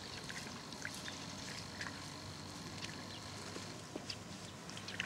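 Outdoor ambience: a steady hiss with a faint, steady high-pitched whine and scattered short, faint chirps and clicks.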